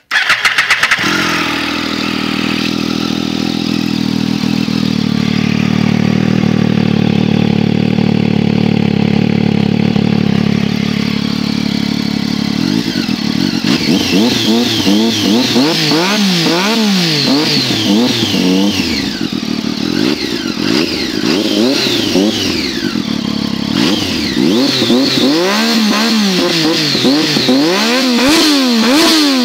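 Triumph Daytona 675's three-cylinder engine, breathing through a Leovince SBK race exhaust, starts up and idles steadily. From about 13 seconds in it is revved in repeated quick throttle blips, rising and falling about once a second, with a brief pause near the end.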